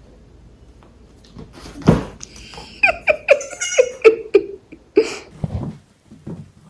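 A sudden knock about two seconds in, then a person laughing in a quick run of short laughs falling in pitch.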